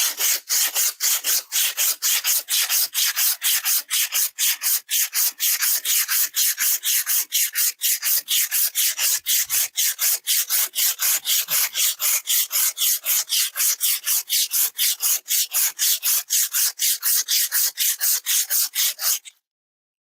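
Fast, even back-and-forth hand strokes scraping on steel, about four a second, stopping abruptly just before the end.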